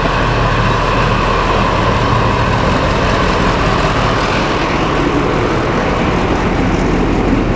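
Diesel locomotive engine running with a steady, loud drone.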